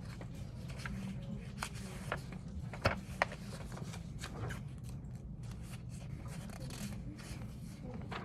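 Small clicks and rustles of objects being handled, with two sharper clicks close together about three seconds in, over a steady low hum.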